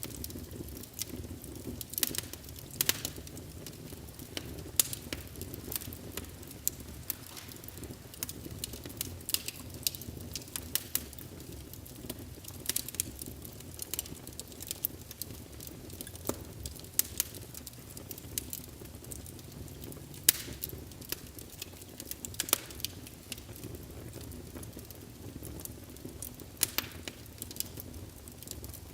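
Wood fire burning in a fireplace: a steady low rumble of flames with frequent irregular crackles and pops, a few of them sharp and loud.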